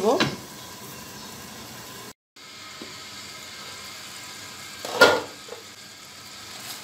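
Drumsticks, potatoes and spice paste sizzling steadily in a wok as the masala braises, with a brief total dropout about two seconds in. About five seconds in, one sharp clink as the glass lid is lifted off the pan.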